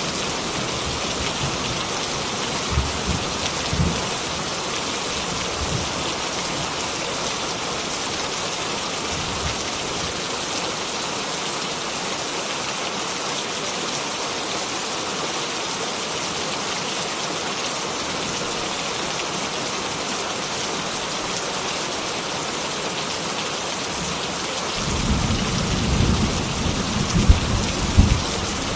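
Heavy rain falling steadily, with low thunder rumbling briefly a few seconds in and again, louder and longer, near the end.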